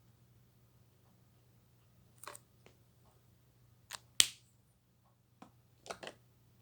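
Alcohol markers being handled: a handful of sharp plastic clicks and taps, the loudest about four seconds in, over a faint steady hum.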